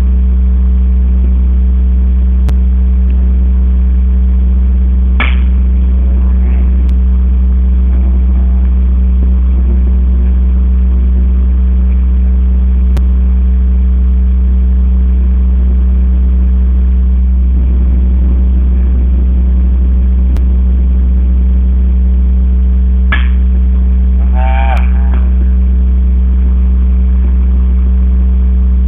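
A loud, steady low mechanical hum that does not change, with a faint distant shout about three-quarters of the way through.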